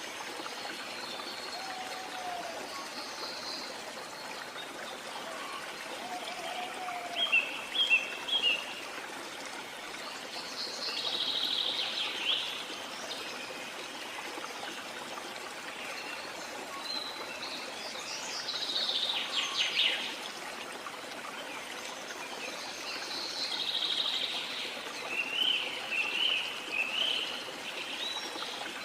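Rainforest ambience: a steady wash of running water, with birds calling over it. A few low whistles come early, then several bursts of higher chirping and trilling follow through the rest.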